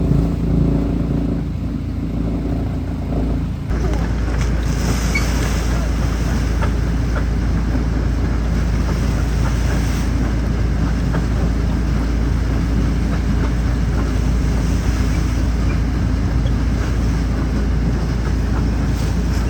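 Wood chipper running: a steady engine tone for the first few seconds, then about four seconds in the sound changes abruptly to a denser, rougher noise full of small cracks that carries on steadily.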